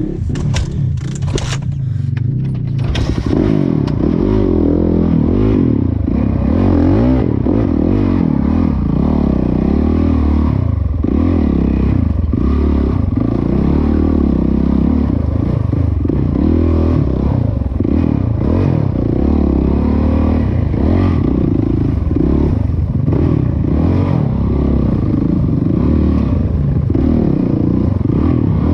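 Dirt bike engine revving up and down again and again as it is ridden over rough ground. There are a few sharp clicks in the first seconds.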